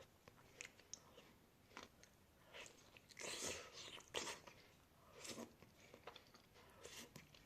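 Close-miked chewing and crunching of food, in irregular crackly bursts, the loudest about halfway through.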